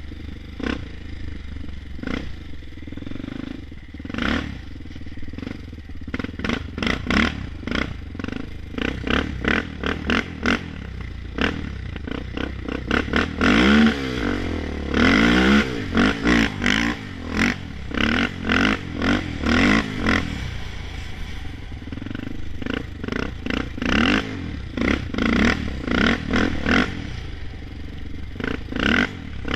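Honda TRX400EX ATV's single-cylinder four-stroke engine held wide open against its rev limiter, the note stuttering over and over as the limiter cuts in. Around the middle the revs swing up and down in quick sweeps.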